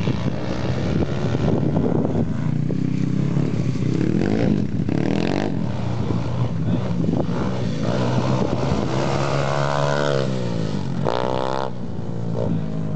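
Pit bike engine revving up and down as it is ridden, its pitch rising and falling with the throttle. Near the end the pitch drops away and then climbs sharply again.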